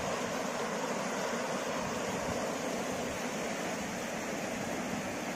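River water rushing steadily over rocks, an even unbroken noise.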